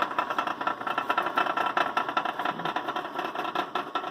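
Logan 200 metal lathe running with the threading lead screw engaged, set to reverse: a steady whir of motor and gearing with a fast, even clatter.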